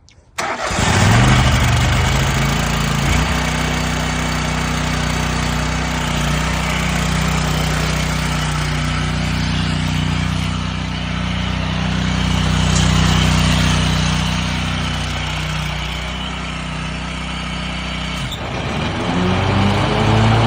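Scag Tiger Cat zero-turn mower engine running steadily, then revving up and back down in the last couple of seconds.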